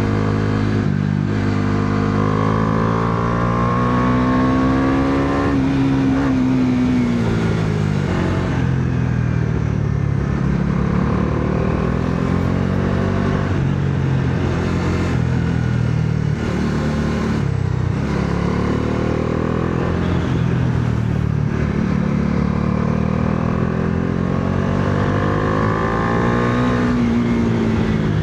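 Bajaj Dominar 400's single-cylinder engine pulling hard under acceleration. Its pitch climbs steadily for several seconds, then drops sharply and eases off. Near the end it climbs again and drops a second time.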